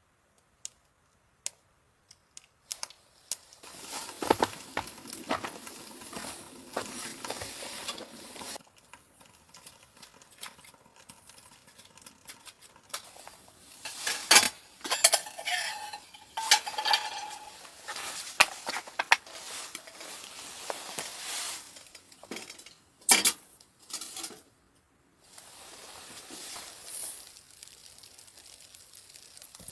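Metal cookware and utensils clinking and scraping in irregular knocks, with stretches of steady hiss in between.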